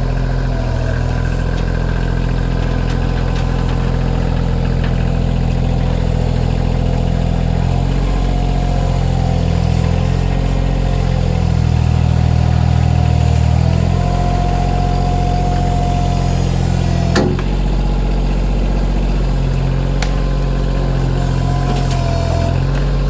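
Kioti CK2610 tractor's three-cylinder diesel engine running under changing load while pulling logs, its pitch shifting as it works, with a whine that comes and goes several times. A single sharp crack or snap about two-thirds of the way through.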